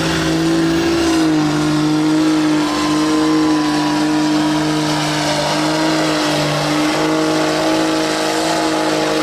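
Off-road vehicle engine held at high revs under load, its pitch staying nearly steady with brief small dips.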